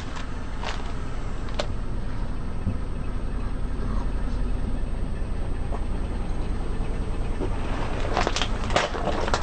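Car engine running low and steady, with a couple of sharp cracks about a second in and a cluster of crackling crunches near the end as objects are crushed under the tyres.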